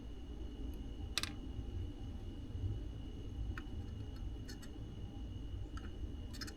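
A few light clicks and ticks from soldering work on a circuit board, as a capacitor's leads are soldered back in, over a steady low hum and a faint high whine.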